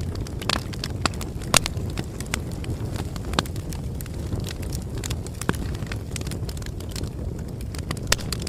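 Campfire burning: a steady low rumble of flames with frequent irregular crackles and pops of burning wood, a few of them sharper and louder.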